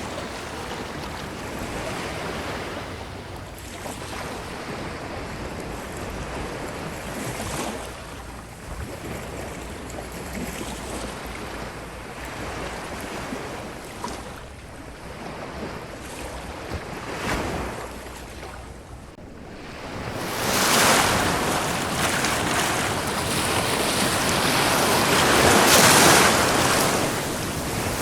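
Ocean surf washing onto a beach in a continuous hiss of water, with small swells for most of the stretch. A bigger wave surges in about two-thirds of the way through, and the surf stays louder after that.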